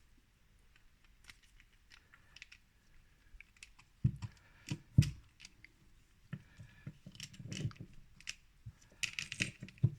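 Small metal parts of a pellet-stove smoke-extractor fan motor being handled and fitted together by hand: scattered light clicks and scrapes, with two louder knocks about four and five seconds in.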